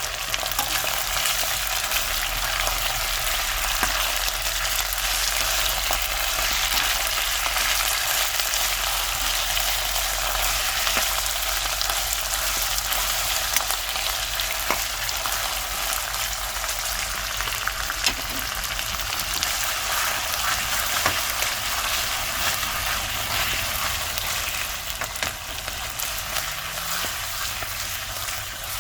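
Food sizzling steadily in hot oil in a karahi, with a few sharp clicks scattered through.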